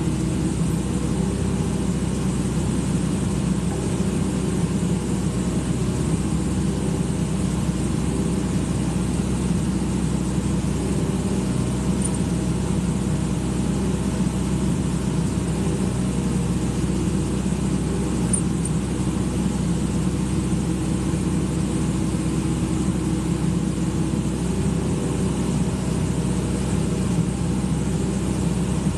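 Excavator's diesel engine running at a steady speed, an even low drone with no changes in revs.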